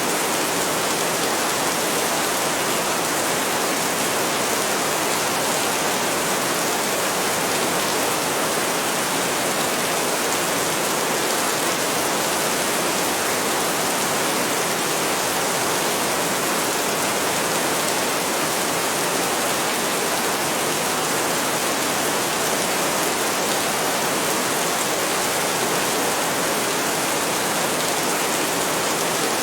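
Heavy rain falling steadily: a dense, even hiss with no thunder and no letup.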